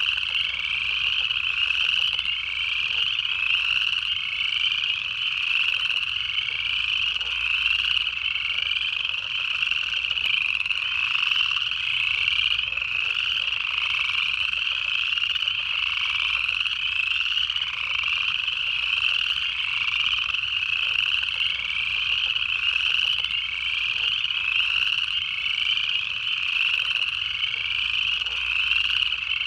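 A chorus of upland chorus frogs, many males calling at once with overlapping ascending trills that repeat about once a second.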